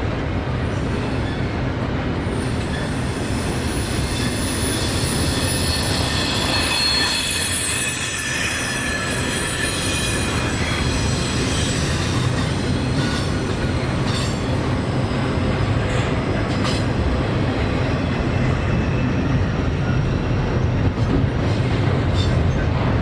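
Freight train cars rolling past on the rails in a steady rumble, the wheels squealing in a high whine through the first half, with a few sharp clacks over rail joints later on.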